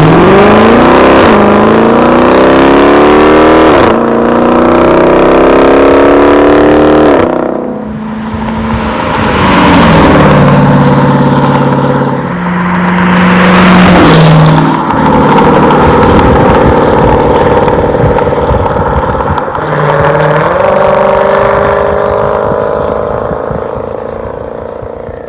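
2019 Dodge Challenger R/T's 5.7 Hemi V8 with Borla ATAK cat-back exhaust accelerating, the revs climbing and dropping at two upshifts in the first seven seconds. It eases off, pulls again, and then settles into a steadier cruise with another shift about twenty seconds in, fading near the end.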